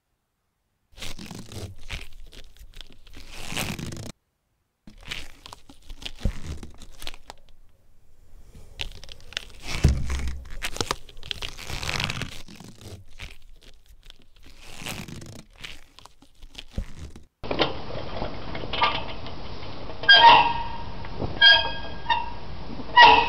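Close-up handling sounds of a small brass Stirling engine model being assembled: light clicks, taps and rubbing of small metal and glass parts on a work mat, in several short stretches. Near the end come a few sharp, ringing clinks.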